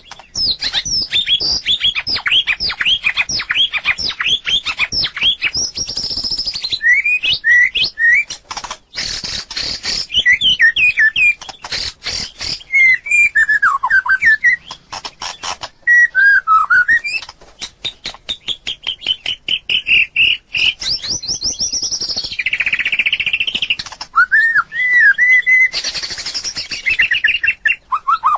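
White-rumped shama singing: a continuous, varied song of rapid note runs and clear whistled glides, broken by a few short harsh, rasping passages.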